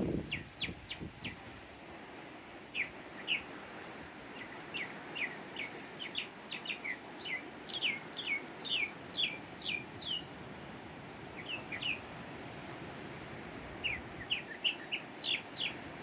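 A small bird calling in quick runs of short, sharp notes that each sweep downward, two or three a second, over a steady hiss of distant surf. A brief low thump comes at the very start.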